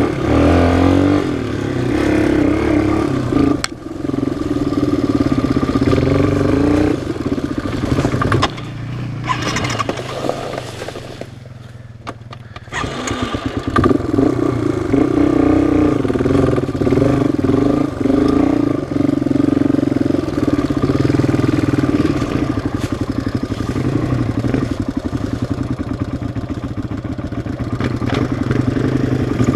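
Single-cylinder four-stroke off-road engine running under throttle, the engine note rising and falling. It eases off and drops low for a couple of seconds near the middle, then picks up again.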